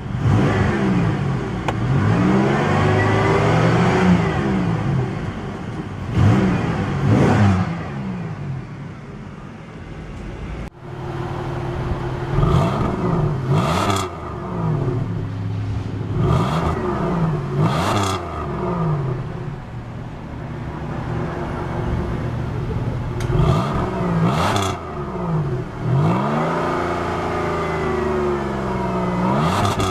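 1998 Pontiac Grand Prix GT's 3.8-litre Series II V6 revved repeatedly in park through its exhaust, each rev rising in pitch and falling back toward idle.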